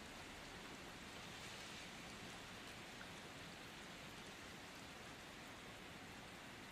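Steady rainfall, a soft, even hiss of rain that holds constant.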